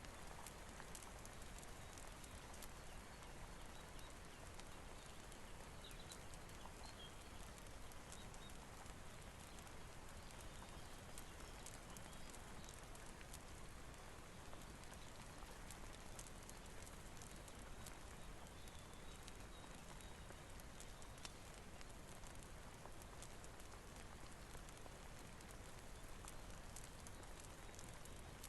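Faint, steady rain hiss with scattered small crackles and ticks from a fire and falling drops.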